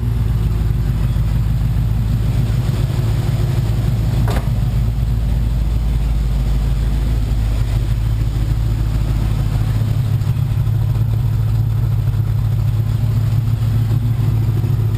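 1977 Chevrolet Camaro's 350 small-block V8 idling steadily, with one brief click about four seconds in.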